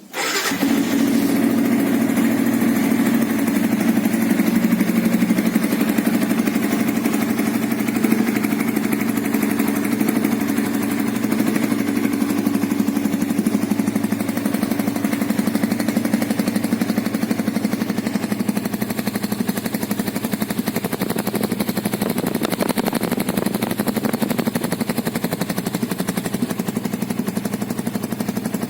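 Yamaha Vixion New 150 cc single-cylinder four-stroke engine fitted with a Suzuki Satria FU exhaust, starting and then idling steadily through that muffler.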